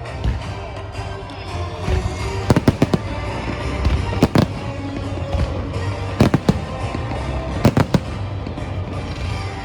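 Aerial fireworks going off in quick clusters of two or three sharp bangs, four clusters in all, over steady music.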